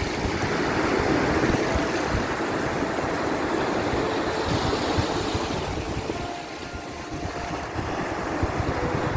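Sea waves washing in with wind: a steady rush that swells in the first couple of seconds, eases about six seconds in, then builds again.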